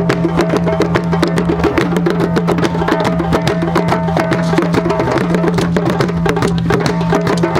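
Drum circle: several drums playing a fast, dense rhythm over a steady low held tone.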